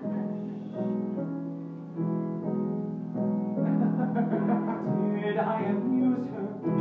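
Piano playing a song introduction in sustained chords, struck anew every second or so. A man's singing voice comes in over the piano about halfway through.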